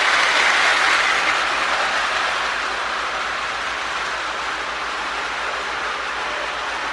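O-gauge toy steam locomotive, a Marx 898 running on a 1666 motor, circling the track with a steady whir of motor, gears and wheels on rail. It is loudest in the first second or two and eases slightly after that.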